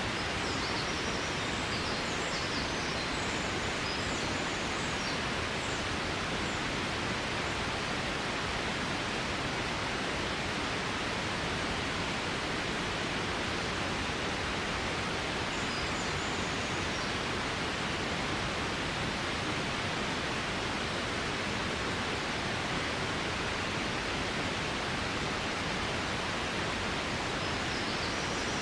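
Steady, even rush of water noise, with a few faint high chirps now and then.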